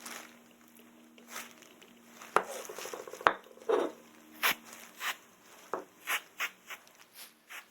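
A series of about a dozen short, irregular scrapes and knocks, some with a brief rasp, over a faint steady hum.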